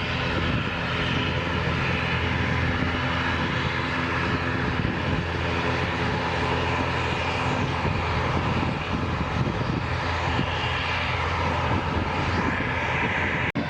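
Airliner engines running with a steady, even noise and a stack of held low tones, with a momentary cut in the sound near the end.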